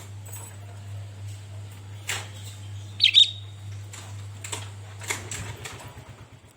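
Sooty-headed bulbul (kutilang) giving one short, sharp call about three seconds in. A few brief scuffs, like wing flaps, come around it, over a steady low hum.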